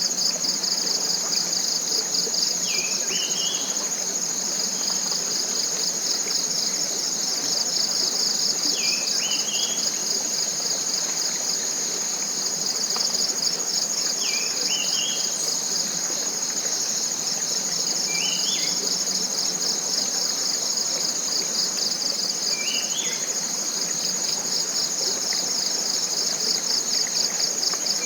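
A dense, steady chorus of forest insects with a fast pulsing, high-pitched trill. Over it a bird repeats a short rising call about every four to five seconds.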